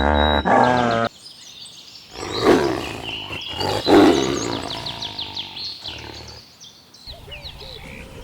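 Farm animal calls across a few short clips: a wavering pitched call for the first second, then loud rough calls about two and a half and four seconds in, fading into quieter animal sounds.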